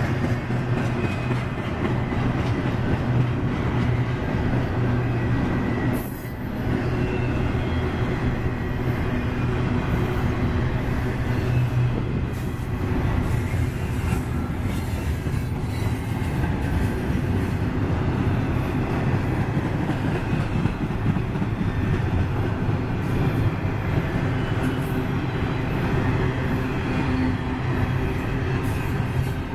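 CSX freight train's double-stack container cars rolling past: a steady, continuous rumble of steel wheels on rail.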